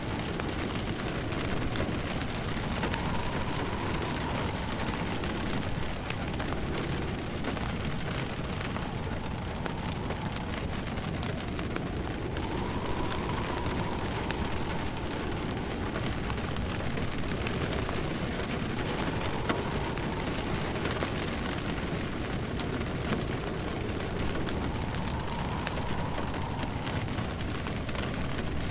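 Steady rain pattering, with a wood fire crackling in a fireplace. A faint wavering tone swells and fades several times.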